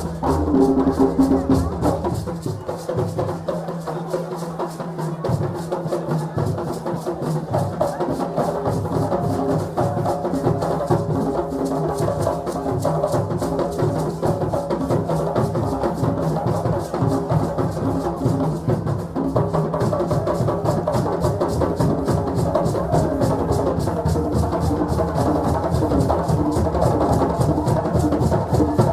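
Festive drumming with many rapid strokes and voices singing or chanting along in a celebrating crowd.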